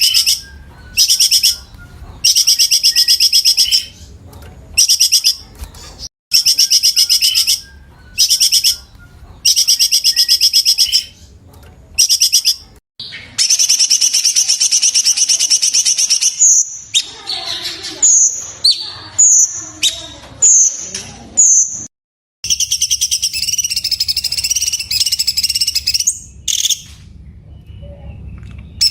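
Cucak cungkok singing its rapid, high trilled bursts, each about a second long with short pauses between. About halfway through comes a run of short falling whistles, followed by a longer trill.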